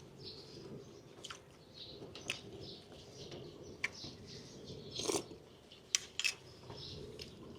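Someone chewing food, with scattered wet mouth clicks and smacks; the loudest come about five and six seconds in. Faint bird chirps can be heard in the background.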